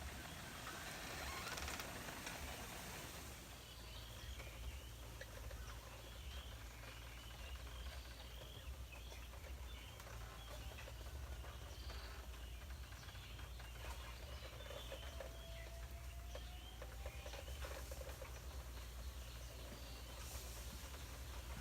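Faint outdoor ambience with scattered short bird chirps over a steady low hum.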